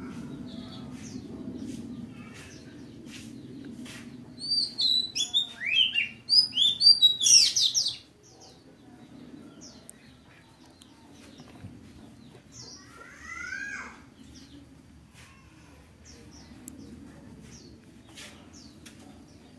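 Small songbirds chirping: a loud run of quick, falling calls from about four to eight seconds in, and a few softer calls a little past the middle, over a low steady background noise.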